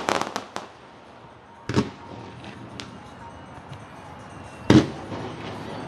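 Fireworks exploding. A crackling volley of bangs comes right at the start, a single bang about two seconds in, a sharp crack shortly after, and one loud boom near the end.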